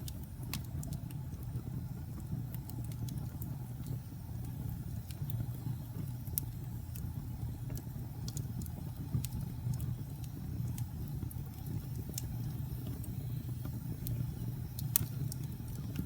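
Wood fire burning in a fireplace: a steady low rumble of flames under scattered sharp crackles and pops, with a few louder pops about six, nine and fifteen seconds in.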